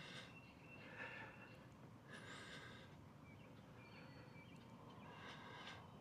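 Near silence, broken by a few faint, short hissy bursts spread through it.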